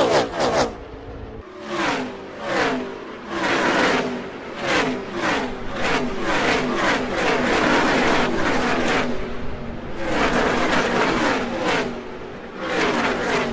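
V8 NASCAR stock cars passing close by one after another, each engine note dropping in pitch as the car goes past.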